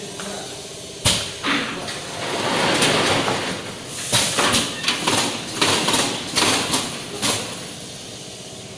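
Repeated clacks and knocks with short sliding scrapes, over a steady hiss: mechanical clatter at a screen-printing machine, its parts or frames being moved and set down.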